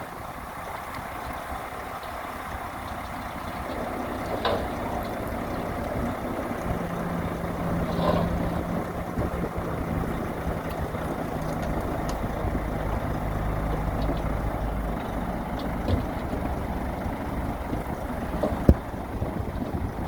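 Diesel engine of heavy earthmoving machinery running, growing louder from about seven seconds in with a steady low hum, with scattered knocks and one sharp clank near the end.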